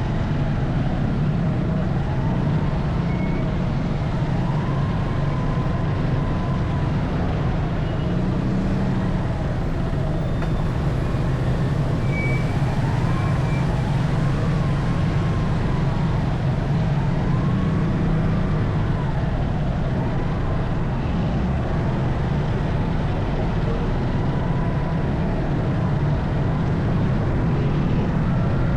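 Suzuki motorcycle riding in traffic, its engine running under a steady rumble of road and wind noise on the action camera's microphone, with the engine pitch rising and falling now and then.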